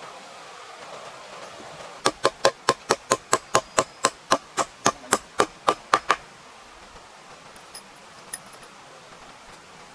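A rapid, even run of hammer blows, about five a second, for about four seconds, then stops. This is typical of a hammer driving a nail into timber.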